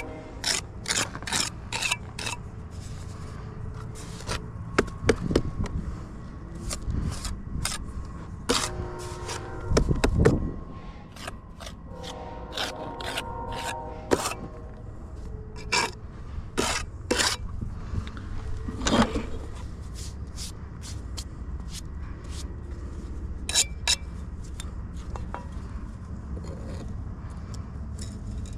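Steel mason's trowel working mortar and setting bricks: a run of short scrapes, with sharp clinks and taps.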